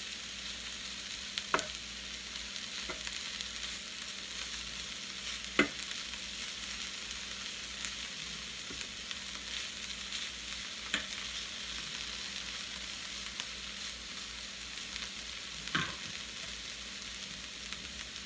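Seasoned chicken pieces, onions and green peppers sizzling on a hot grill: a steady frying hiss, with a few short sharp clicks every several seconds.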